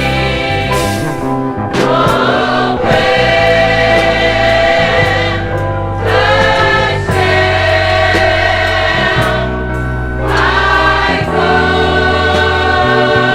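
Gospel choir singing long held chords over a steady bass line, the chords changing about every four seconds.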